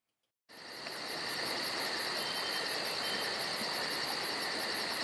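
Insect chorus, crickets chirping in rapid even pulses over a steady high hiss, fading in about half a second in.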